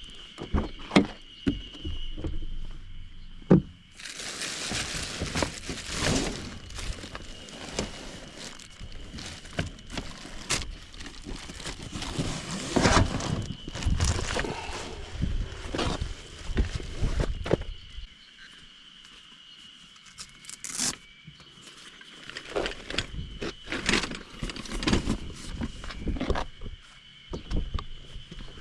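Spring cicadas singing in a steady high drone, under close-by footsteps, scraping and clattering handling noises.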